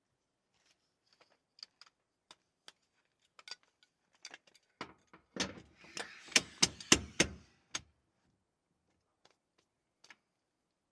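Scattered sharp clicks and knocks of small hard objects being handled, thickening into a quick run of louder clacks with some rustle from about five to eight seconds in.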